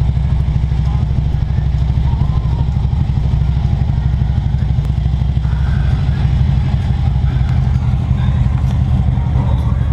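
A vehicle engine running steadily on the move, a deep low rumble.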